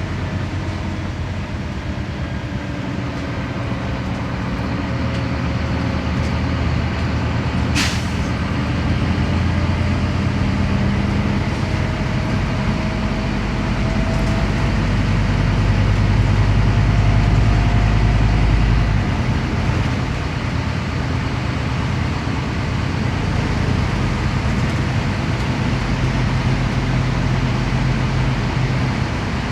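Scania CN270UB city bus under way, heard from inside: its diesel engine runs with a steady drone that grows louder under load and then eases off suddenly about nineteen seconds in. There is a brief sharp click about eight seconds in.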